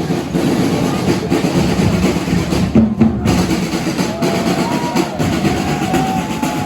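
Drums and percussion of a procession band playing, bass drum prominent, over a dense, steady din.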